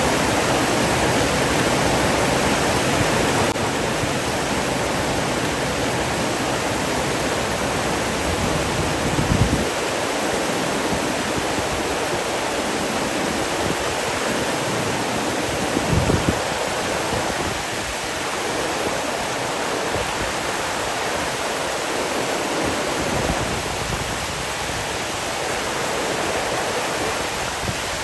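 Rushing water running steadily, with two brief low thumps, one about a third of the way in and one just past halfway.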